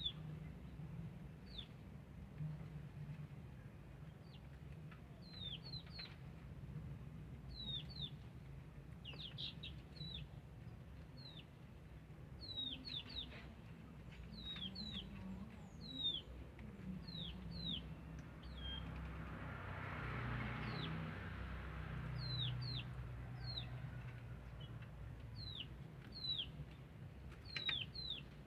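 Small birds chirping: repeated short, high, downward-sweeping chirps, singly or in quick clusters of two or three, over a low steady hum. A soft rushing swell rises and falls about two-thirds of the way through.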